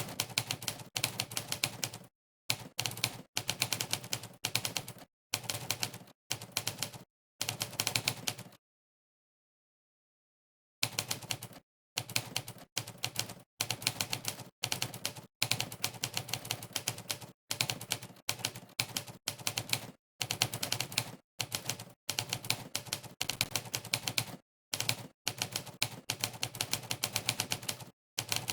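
Typewriter keystroke sound effect from a typing-test website, played once for every key pressed during fast typing: rapid clatters of key strikes in short runs with brief breaks between them, and a stop of about two seconds near the middle.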